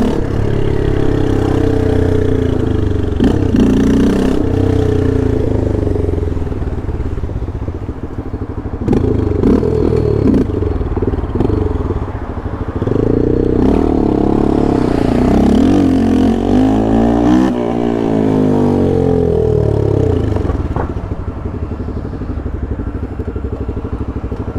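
Yamaha Lander 250 single-cylinder four-stroke motorcycle engine under hard acceleration. It revs up and drops back repeatedly through the gears, then eases off to a lower, quieter run near the end.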